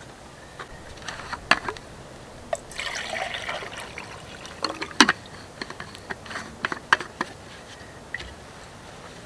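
Liquid poured or splashing briefly about three seconds in, among a series of sharp clicks and knocks from things being handled.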